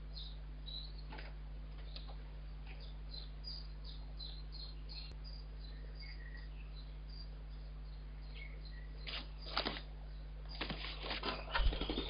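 Short high bird chirps repeating throughout. Near the end come bursts of rustling and scratching, as the blackbird stirs in the twig-and-grass nest and leaves it. A steady low electrical hum sits underneath.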